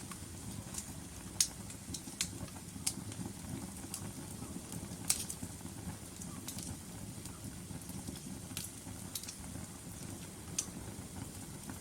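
Wood fire burning in a fireplace: a steady low rumble of the flames with about ten sharp, irregularly spaced crackles and pops from the burning logs, the loudest about a second and a half in and about five seconds in.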